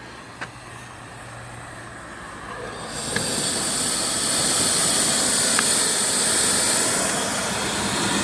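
Steam blower on a fire-tube boiler opened up: steam hissing through the blower ring, swelling about three seconds in to a steady, loud hiss that forces draft through the firebox.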